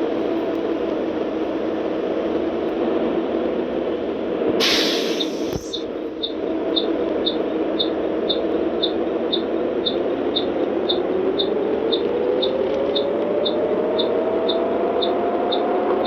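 Car driving in heavy rain: a steady rush of rain and wet-road tyre noise, with the engine note rising as the car speeds up over the last few seconds. About five seconds in there is a brief loud hiss of spray, and from then on a light ticking about twice a second.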